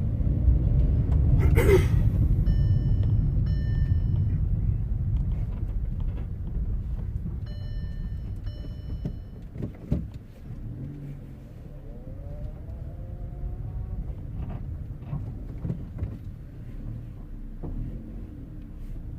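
A 2014 Volkswagen Up! being driven over rough grass: a low rumble that is loudest for the first several seconds and then eases off. There are two short runs of electronic beeps, about three and eight seconds in.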